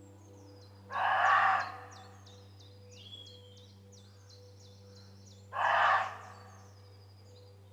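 Roe deer barking: two short, harsh barks about four and a half seconds apart, each well under a second long. Birds chirp faintly between them.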